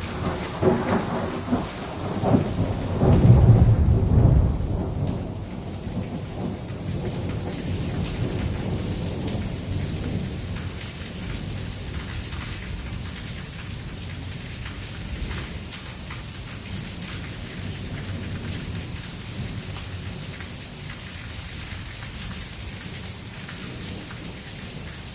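A thunderclap rumbling for several seconds, loudest about three to four seconds in and fading by about six seconds, over steady heavy rain.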